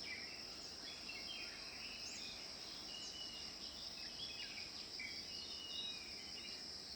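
Countryside ambience: a steady, high-pitched insect drone with scattered chirping bird calls over it.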